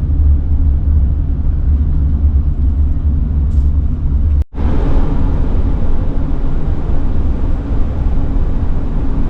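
Car driving on a road, heard from inside: a steady low rumble with road and tyre noise. The sound drops out briefly about halfway through.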